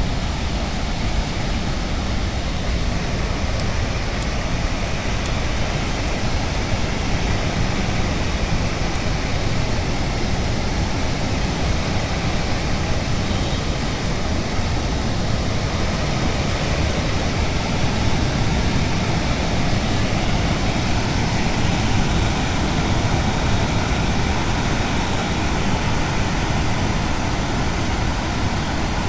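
Steady rush of floodwater pouring through the open spillway of the Victoria Reservoir dam, an even, unbroken noise heaviest in the low end.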